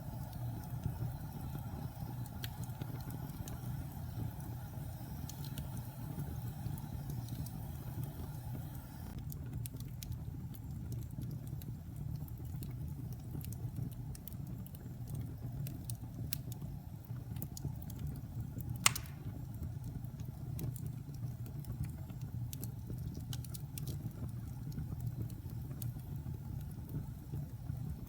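Fire in a fireplace crackling, with scattered small pops and one sharp, loud pop about 19 seconds in, over a steady low rumble.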